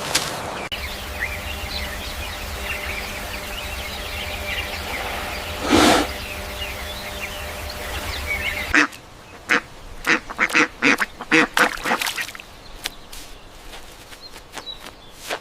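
Ducks quacking: a quick run of separate calls, thickest a little past the middle, then sparser. They follow a stretch of busy outdoor ambience with small bird chirps and one louder call.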